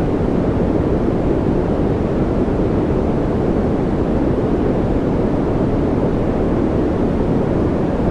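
Continuous noise-machine style track: an even, deep rushing hiss with most of its weight low down and little treble, never changing.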